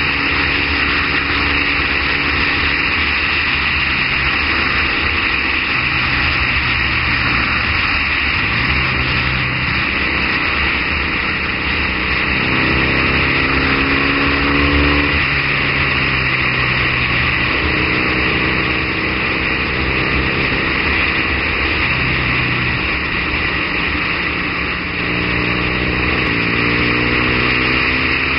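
Triumph Bonneville parallel-twin engine running under way at road speed, its note rising and falling several times with the throttle, under a steady rush of wind and road noise.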